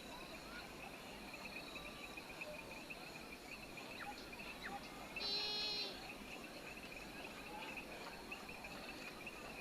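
Insects chirring steadily in a high, pulsing drone. A short animal call cuts in about five seconds in and is the loudest sound.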